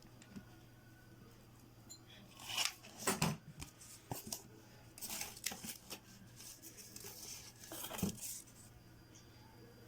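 Rustling and scraping of craft pieces being handled, positioned and pressed together while hot-gluing, with two light knocks, about three seconds in and again near the end.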